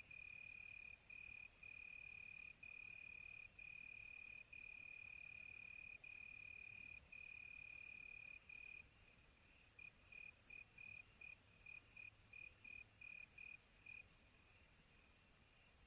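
Crickets chirping at night: a faint, steady high trill broken by brief gaps, which turns into a run of short, quick chirps, about three a second, a little past halfway through. A fainter, higher insect hiss runs underneath.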